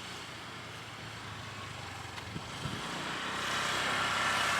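Small motorbike engine running steadily, growing gradually louder over the second half.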